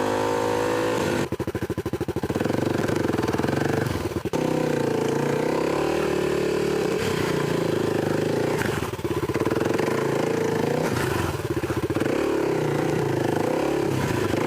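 Single-cylinder dirt bike engine running on a trail, its pitch rising and falling with the throttle. About a second in, and briefly again near four seconds, it drops to a low chugging before picking up again.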